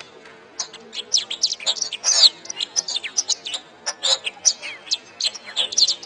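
Domestic canary singing a fast, varied song of chirps, trills and sweeping whistles, with a brief pause right at the start.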